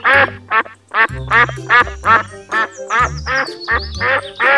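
Ducks quacking in a rapid series, about three quacks a second, over background music.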